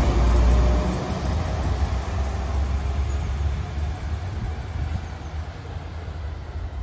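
West Midlands Railway Class 172 diesel multiple unit departing, its low engine and wheel rumble loud at first, dropping about a second in and then slowly fading as the train draws away.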